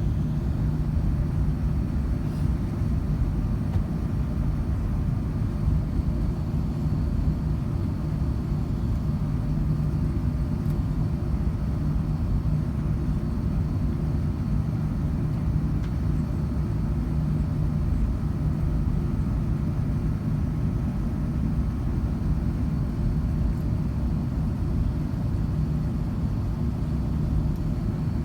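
Airbus A380 cabin noise: a steady, deep rumble of the airliner's engines and airflow heard from inside the passenger cabin, with a low held hum under it.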